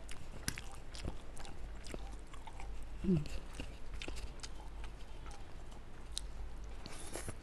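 Close-up eating sounds of a person chewing a mouthful of spicy Indomie mi goreng noodles: many small wet mouth clicks and smacks, with a short vocal sound about three seconds in.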